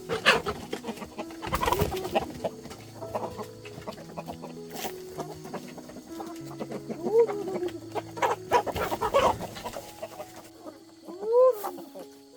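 Chickens clucking, a string of short rising-and-falling calls with a few sharper, louder ones.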